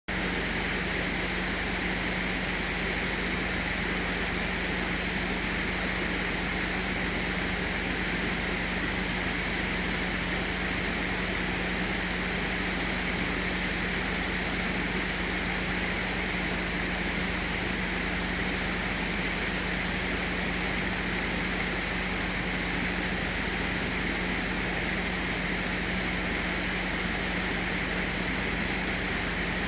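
Running water, a steady even rushing noise with a steady low hum under it.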